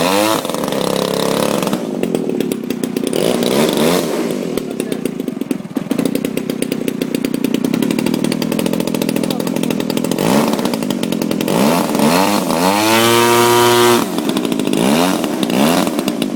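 Small model airplane engine running at a buzz, its mixture freshly adjusted. It revs up near the start, and again about twelve seconds in, where the pitch climbs high and holds for about a second before dropping back.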